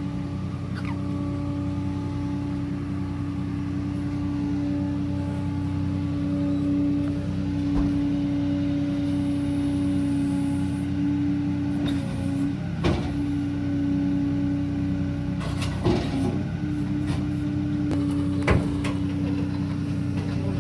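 Pickup truck running with a steady, even hum and low rumble. A few short sharp knocks or clicks come in the second half.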